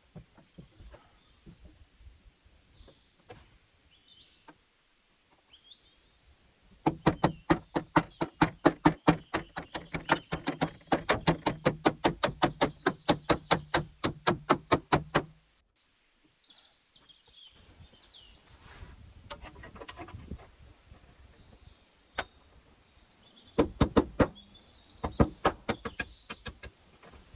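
Rapid, even knocking, about five strikes a second, in two long runs. Birds chirp faintly between them.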